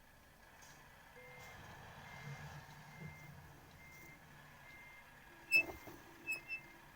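A vehicle's reversing alarm beeping steadily at one pitch, about one and a half beeps a second, over a low engine rumble. About five and a half seconds in, a sharp high chirp sounds, then two shorter, fainter ones.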